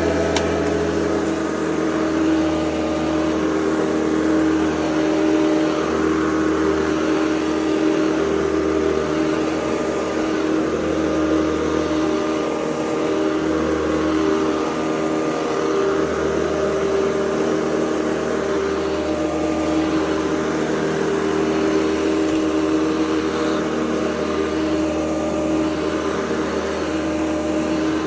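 Hoover Convertible U4101 upright vacuum cleaner running steadily, a motor hum with a rough edge, swelling slightly now and then as it is worked over the floor.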